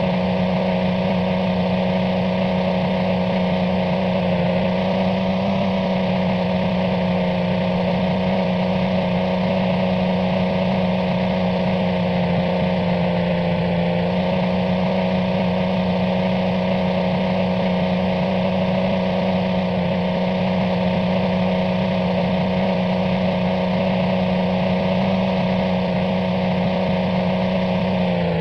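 Car engine droning at a steady speed, its pitch wavering slightly.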